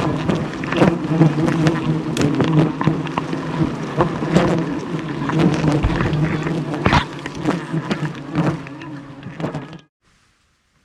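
A swarm of honey bees buzzing densely, with many sharp clicks over the buzz. It fades and then cuts off abruptly near the end.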